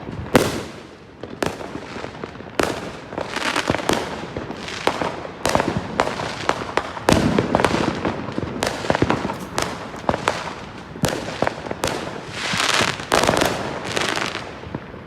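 Fireworks going off: a continuous run of sharp bangs and crackling, with several bangs close together at a time and denser patches of crackle.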